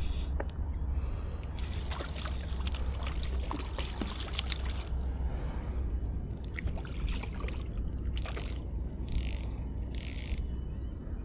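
Water splashing and trickling as a hooked pinky snapper is played in on rod and reel, with scattered small clicks and handling noises. A steady low rumble runs underneath, and three short bursts of splashing come near the end.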